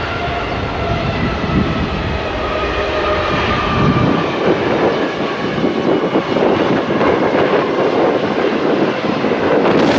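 Airbus A350-900's Rolls-Royce Trent XWB jet engines during landing. A whine falls slowly in pitch over the first few seconds, then a louder rushing rumble builds from about four seconds in.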